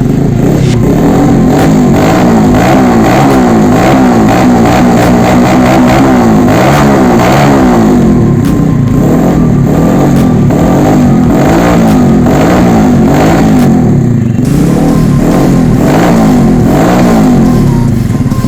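Honda C70's four-stroke single-cylinder engine revved through a loud racing exhaust, blipped up and back down over and over, about once a second, with a brief break in the pattern near the end.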